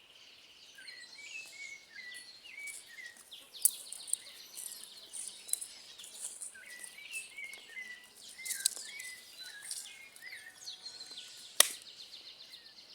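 Outdoor birdsong: small birds chirping in short repeated notes over a high insect-like trill, with a few sharp clicks scattered through, the loudest about a second before the end.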